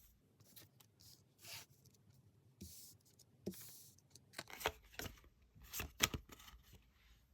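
Tarot cards being handled on a table: an irregular run of papery swishes and sharp taps, the loudest taps about five and six seconds in.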